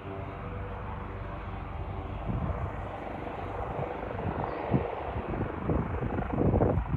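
Leonardo AW139 twin-turbine helicopter running: a set of steady, evenly spaced tones for about two seconds, then a rougher rotor noise that grows louder and more uneven toward the end.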